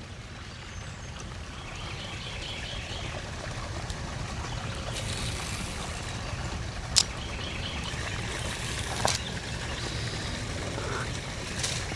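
Steady trickling water, with one sharp click about seven seconds in.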